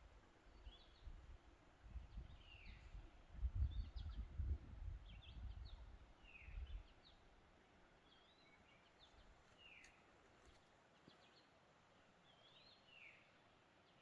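Faint birdsong in the woods: short down-slurred chirps repeated every second or two. A low rumble fills the first half and stops about halfway through.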